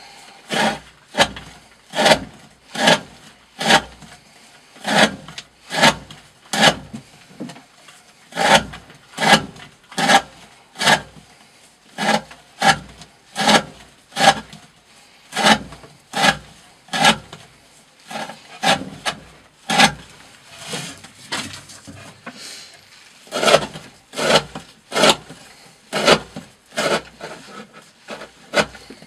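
D2 steel knife blade slicing through thick 20 mm rope again and again in a steady rhythm, about one and a half cuts a second, each cut a short rasping stroke, with a brief lull about two thirds of the way through.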